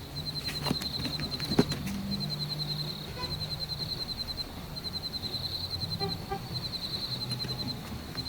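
Crickets chirping in rapid pulsed trains that repeat throughout, with a low hum underneath and a couple of faint knocks early on.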